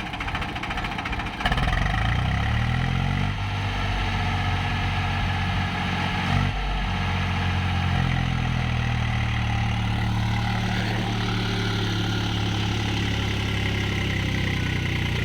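Tractor diesel engine running; it revs up about a second and a half in, then holds a steady speed. A brief knock about six seconds in.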